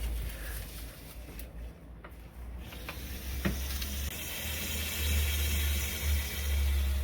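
Low rumble of wind or handling on the microphone, joined about three seconds in by a steady, even hiss that holds to the end, with a few faint clicks.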